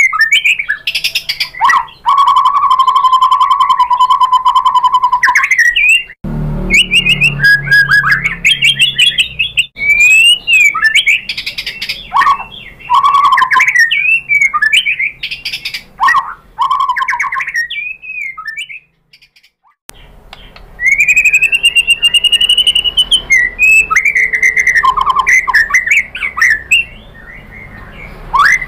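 White-rumped shama singing a varied song of loud whistled phrases, pitch glides and rapid chattering trills, with a long trill held on one pitch near the start and a short pause about two-thirds of the way through.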